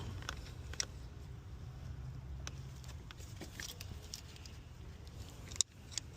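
Small plastic clicks and taps of hands working a stuck electrical connector on an engine's coolant temperature sensor, with one sharp, louder click about five and a half seconds in, over a steady low rumble.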